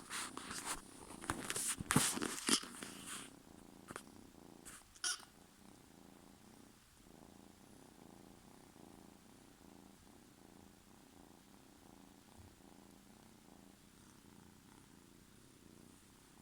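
Kitten purring steadily and close, an even pulsing rumble. The first three seconds or so are overlaid with loud rustling and clicks, with one more click about five seconds in.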